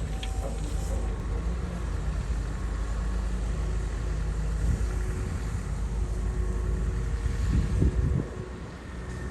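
Komatsu bulldozer's diesel engine running with a deep, steady rumble as it works soil. The rumble swells briefly near the end, then drops off suddenly.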